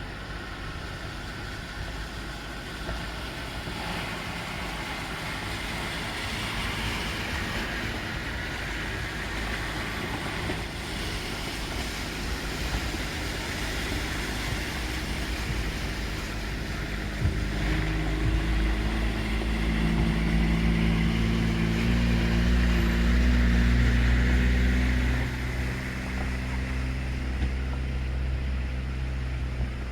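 Road traffic passing: a steady wash of vehicle and outdoor noise, with one vehicle's engine growing loud from about halfway through, loudest a few seconds later, then dropping away near the end.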